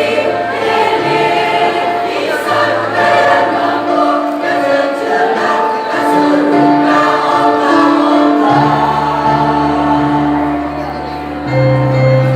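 Choir singing a piece in several parts, with steady held low notes underneath.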